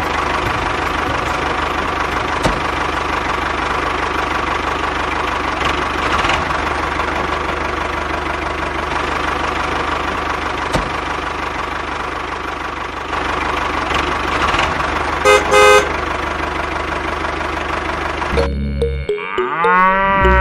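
A steady, dense machine or vehicle noise, cut by a short burst of horn-like beeping about fifteen seconds in. Near the end a cow moos once, its pitch rising and falling.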